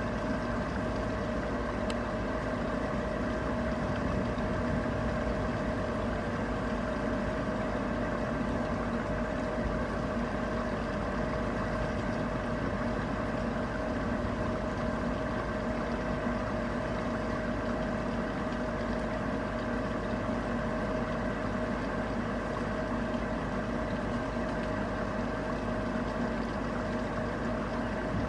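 Steady rain with a constant mechanical hum of several fixed tones running underneath, unchanging throughout.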